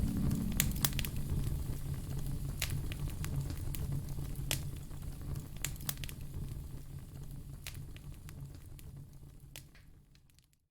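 Wood fire crackling: scattered sharp pops and snaps over a low rumble of flame. It fades out gradually toward the end to a moment of silence.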